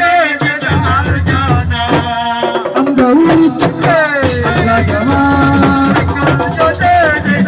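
Live assiko band music: driving percussion with shaker rattles under a melodic lead line, the texture thinning briefly about two seconds in.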